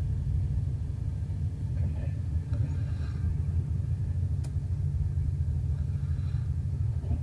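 Moving train: a steady low rumble of wheels on the track, with a faint click about four and a half seconds in.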